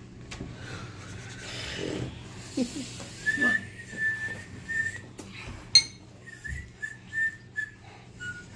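A high, thin whistling tone held for about two seconds, then broken into several short whistles at the same pitch. A single sharp click partway through is the loudest sound.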